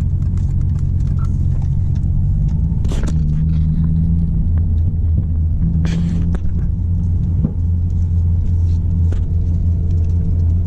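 Car engine running with a steady low rumble, with two short hissing bursts about three and six seconds in.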